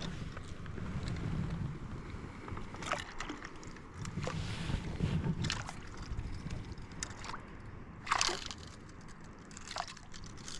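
Water sloshing against a small boat, with a low wind rumble and scattered sharp knocks and clicks.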